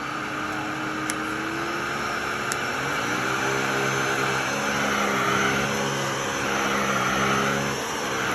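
Miele Triflex cordless stick vacuum running: the motor's pitch rises over the first few seconds as it spins up, then holds a steady whine over a rushing airflow.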